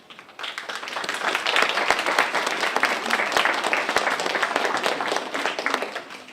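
Audience applauding: many hands clapping at once, starting about half a second in and dying away near the end.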